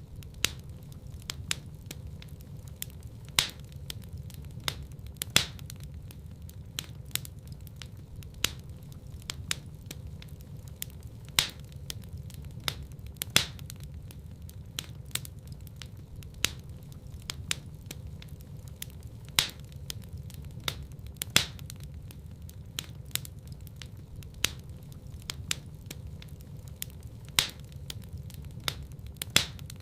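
Wood fire crackling in a fireplace: irregular sharp pops and snaps, several a second, with a few louder pops, over a steady low rumble.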